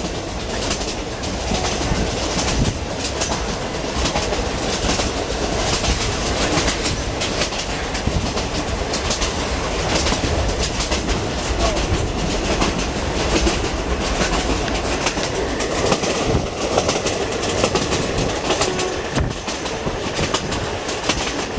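Passenger train carriage running along the track: a steady rumble with the wheels clacking on the rails, heard through the open windows of a third-class carriage.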